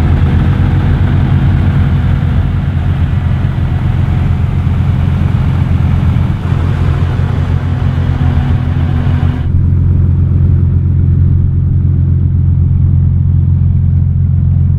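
The turbocharged BMW S54 3.2-litre straight-six of an M3 E46 idling loudly and steadily, with no revving. The higher hiss over the engine note drops away about nine and a half seconds in.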